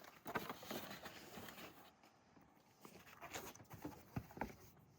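Faint scattered knocks and scuffs of cardboard boxes being dropped and pushed into a vertical baler's chamber, with a short silent gap about two seconds in.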